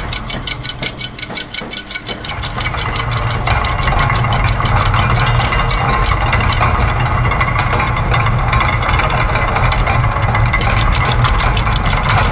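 Layered loops of industrial machine sounds: fast, even mechanical clicking over a steady low machine rumble. The low rumble thins out for about the first two seconds, then comes back in.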